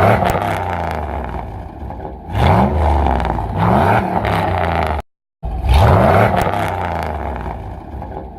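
Vehicle engine revving in short rising pulls over a steady running drone, several times over. A sudden dropout to silence comes about five seconds in, and then the same revving sequence repeats.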